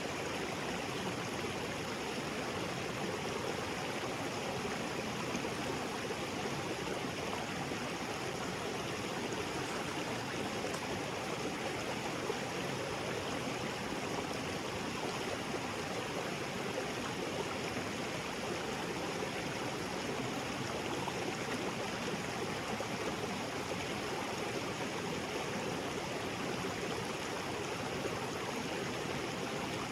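Small waterfall spilling into a rocky creek: a steady, even rush of falling and flowing water.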